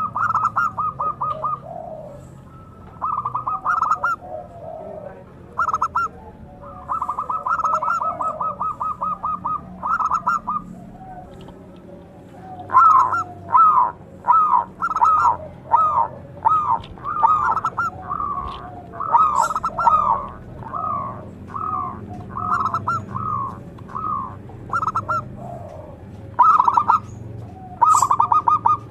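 Zebra dove (perkutut) calling loudly. It opens with fast runs of short repeated notes, then about halfway through switches to a long series of separate, rising-and-falling coos. A brief high chirp is heard near the end.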